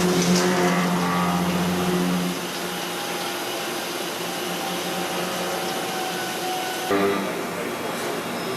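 Heavy-duty 5-axis CNC mill running, a steady motor and machining noise. A pitched hum with overtones drops away about two seconds in and comes back near the end.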